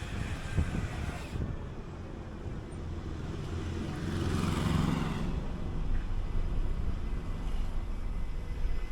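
City bus running along the road: a steady low engine rumble with tyre and road noise, swelling about four to five seconds in.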